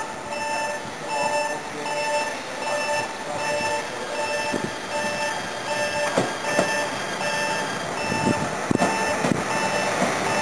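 Railway electronic warning signal sounding a steady string of pitched beeps. A few sharp knocks come in the second half.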